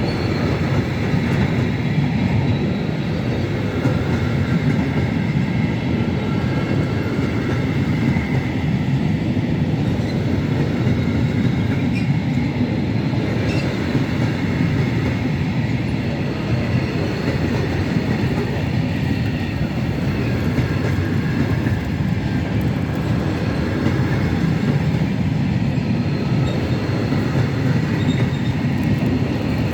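Container freight train rolling past, a steady rumble of wagon wheels on the rails with faint high wheel tones above it.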